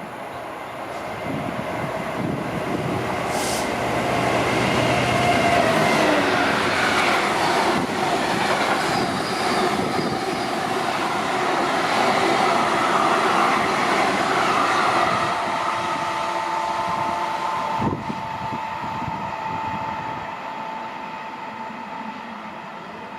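A train running through the station: its rumble builds, stays loud for several seconds in the middle, then fades away. A steady whining tone carries on as it recedes, and a single knock comes near the end.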